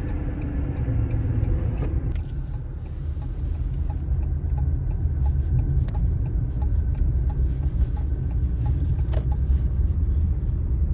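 Car driving slowly, heard from inside the cabin: a steady low road and engine rumble, with a faint regular tick about two a second from about two seconds in.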